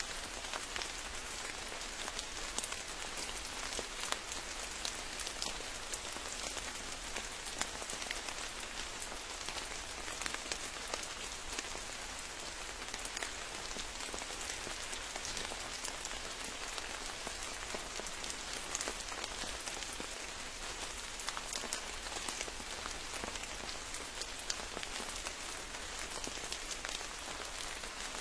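Steady rain falling, with many individual drops pattering on leaves and other surfaces.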